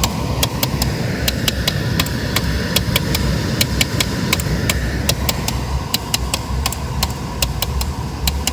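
Sharp clicking from behind the glovebox of a Honda N-Box, about three clicks a second and somewhat uneven, over the low rumble of the idling car. It is an abnormal noise whose cause is unknown.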